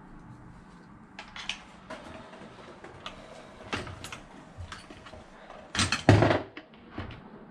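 Scattered clicks and knocks of small hard parts and tools being handled on a workbench, with a louder clatter of several knocks about six seconds in.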